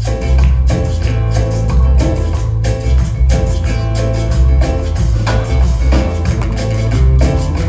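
Band playing instrumental Latin American music: guitar and percussion over a heavy bass line with a steady beat.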